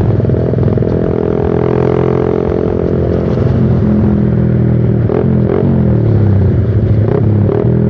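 Suzuki Satria FU's single-cylinder four-stroke engine running loud through a short Pro Liner aftermarket muffler with its dB killer removed, on the move. In the second half its pitch dips and climbs again a few times.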